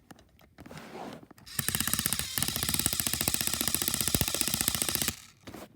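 A fast rattling noise effect with many rapid pulses a second, from about a second and a half in until near the end. It is the only noise the character James makes.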